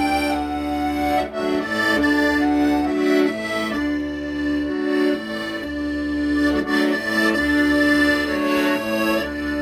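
Accordion playing a slow melody in long held notes over a steady pulse of low bass notes.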